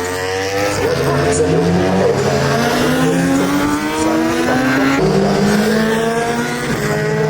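Racing superbike engines accelerating hard, their pitch climbing steadily and dropping sharply at a gear change about five seconds in, with more than one bike heard at once.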